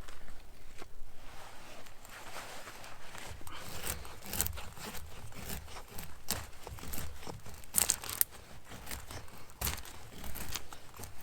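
Irregular rustling and crackling with scattered sharper snaps, the loudest a little before eight seconds in.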